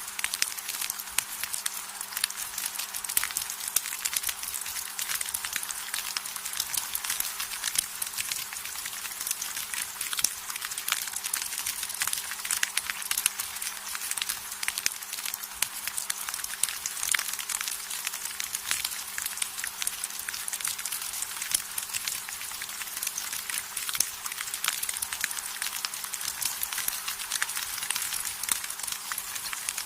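Steady rain on a house terrace, drops tapping on the roof, railing and floor as a dense run of sharp crackly ticks over an even hiss. A faint low hum lies underneath.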